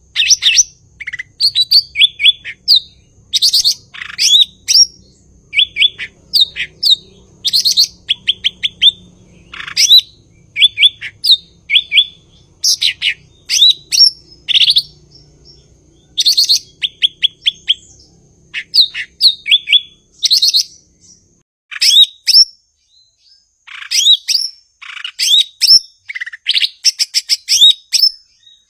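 Cucak ijo (green leafbird) singing a fast, varied song of sharp chirps, quick trills and rising and falling whistled notes, in bursts separated by brief pauses.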